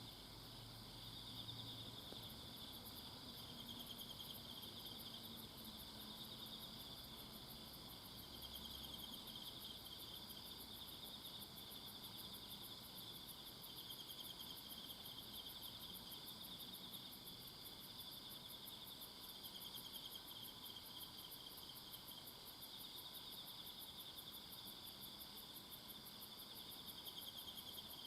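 A chorus of several kinds of insects calling in a forest at the same time: steady, overlapping high trills with a very high, fast pulsing above them, all fairly quiet.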